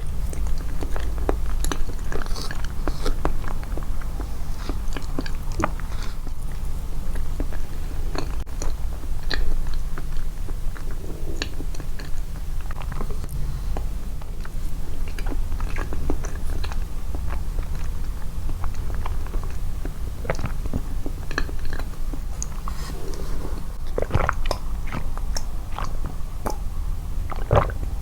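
Close-miked eating: continuous chewing and biting with many small wet mouth clicks and some crunching, boosted in the edit, over a steady low hum.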